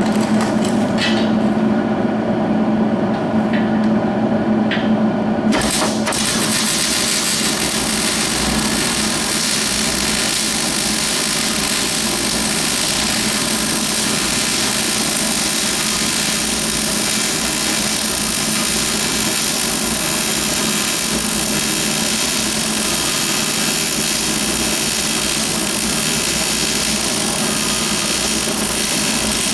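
A steady hum with a few clicks, then about six seconds in a MIG welder's arc strikes and runs as a steady, even hiss while the tractor rim's center is welded back into the rim.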